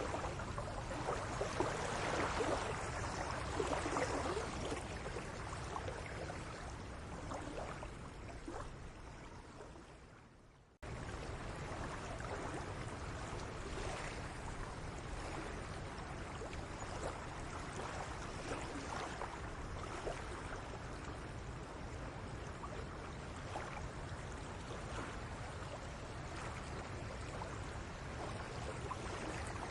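Steady outdoor background noise with small scattered clicks. It fades away about ten seconds in, then cuts back in abruptly and stays steady.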